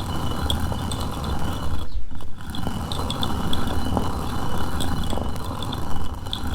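Hand-turned stone grinder (rotary quern) being turned to crack green gram into split dal: a continuous rough stone-on-stone grinding rumble, broken by a short pause about two seconds in.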